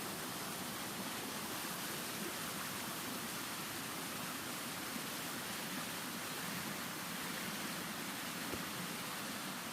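Steady, even rushing noise with no pitch and no distinct events.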